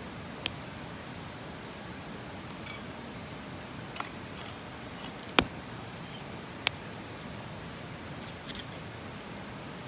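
Campfire burning with a steady hiss and a handful of sharp, irregular pops and cracks from the wood.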